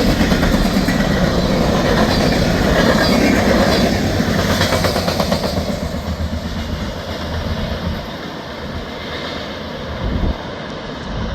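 Freight train cars rolling past on jointed rail, steel wheels clicking in a steady clickety-clack over a continuous rumble. The sound eases off from about halfway through as the cars pass by.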